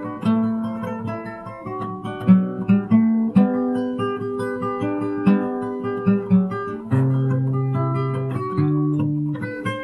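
Acoustic guitar fingerpicked, a melodic instrumental passage of plucked notes over bass notes, without singing.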